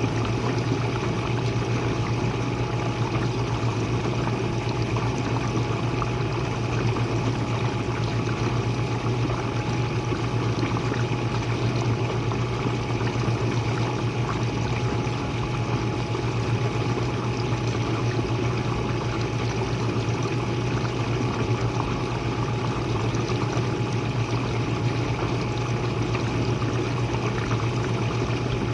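Jenn-Air dishwasher running, heard from the bottom of the machine: water spraying and splashing inside over a steady low hum, unchanging throughout.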